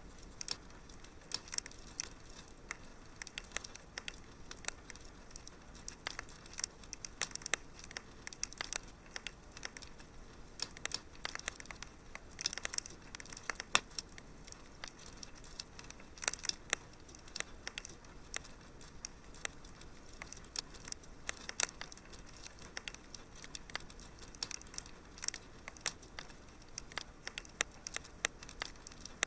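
Wood fire crackling in a fireplace: irregular sharp pops and snaps, several a second at times, over a soft steady hiss.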